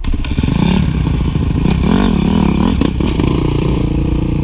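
Honda motorcycle engine running loud and close, the throttle worked so its pitch wavers up and down about two seconds in, then holds steadier near the end.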